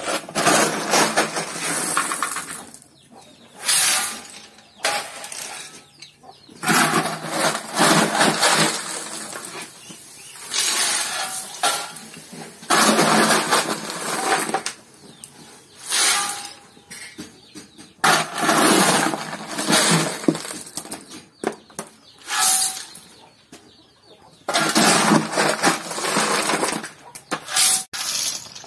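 Broken brick pieces dropped and tossed onto a rubble fill, clattering and crashing in repeated bursts a second or two long every few seconds.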